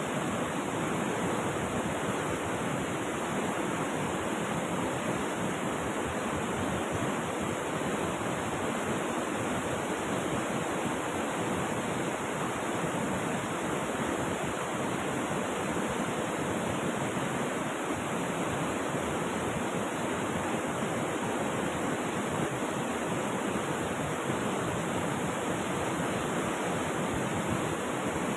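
Rushing river water, running as a steady, unbroken rush with no separate splashes or pauses.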